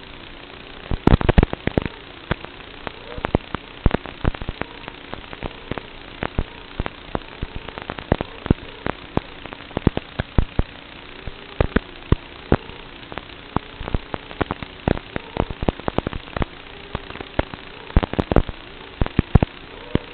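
Emax Tiny Hawk micro drone's small motors buzzing, their pitch wavering up and down with throttle. Many sharp clicks and taps run through it, coming in clusters.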